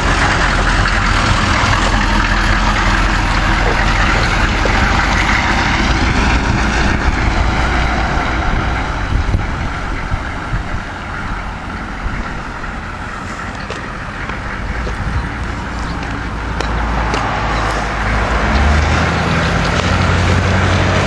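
GMC mail delivery truck's engine running as the truck drives off, with a heavier, louder low engine note coming in near the end.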